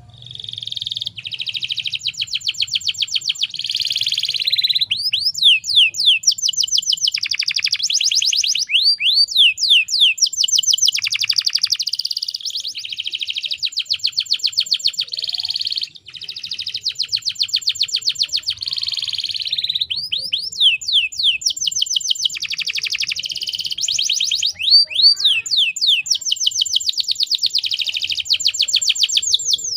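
Domestic canary singing a long, loud, high-pitched song of rapid trills and repeated sweeping notes, with short breaks between phrases about five seconds in, midway and about two-thirds through.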